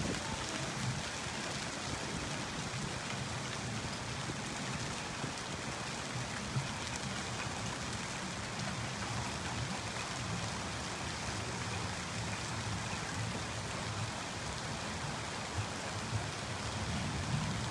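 Heavy rain of a hailstorm pouring steadily, with a few faint sharp taps standing out from the hiss.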